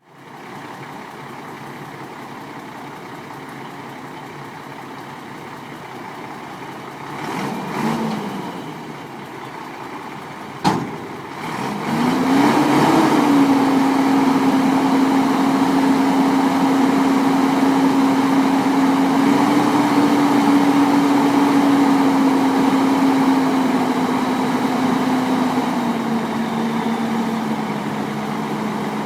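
Ford tandem-axle dump truck's engine idling, with a short rev a quarter of the way in and a single sharp click just before the midpoint. The engine then speeds up to a steady higher speed and holds it, easing down a step near the end.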